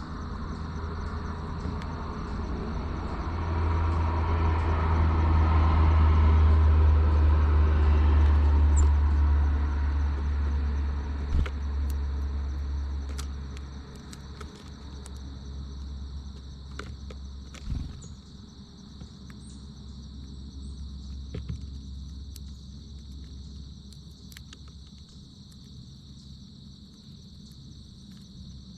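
A vehicle passes: its low rumble builds over the first few seconds and fades away by about halfway. A steady high-pitched insect chorus sounds behind it, with a few sharp clicks around the middle.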